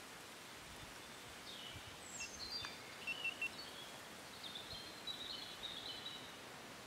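A songbird singing two short phrases of high chirps and trills, the first about a second and a half in with a quick falling note, the second about four and a half seconds in. Faint steady outdoor background noise underneath.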